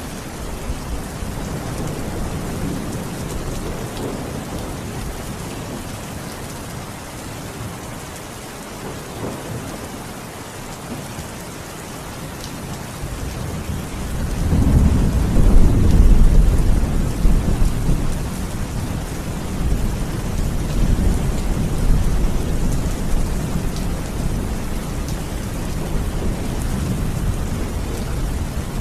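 Steady heavy rain falling on a surface, with a long low roll of thunder that builds about halfway through, peaks, and slowly rumbles away.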